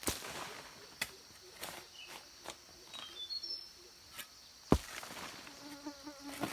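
Steady high-pitched insect chorus of crickets or cicadas, with a few sharp knocks: one at the start, one about a second in, and a louder one past the middle.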